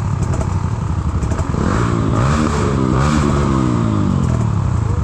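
Trail motorcycle engine running and revving: its pitch climbs from about a second and a half in, then eases back down toward the end.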